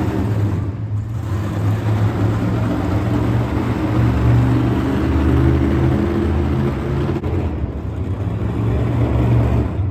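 A deep engine running and revving, rising and falling in level, like a monster truck engine.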